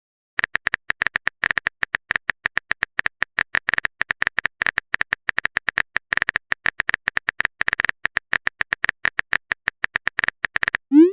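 Rapid keyboard typing clicks of a chat-app sound effect, irregular at roughly eight to ten a second, each click with a slight beep-like tone. A short rising blip sounds right at the end.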